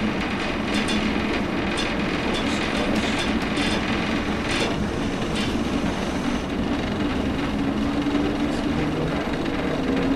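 Inside a diesel multiple unit rolling slowly along the line: the underfloor diesel engine runs with a steady hum that grows a little stronger in the second half, while the wheels give irregular clicks over rail joints and pointwork.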